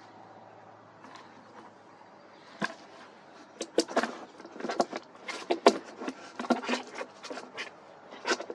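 A quiet start, then from about two and a half seconds in a string of irregular sharp clicks and knocks.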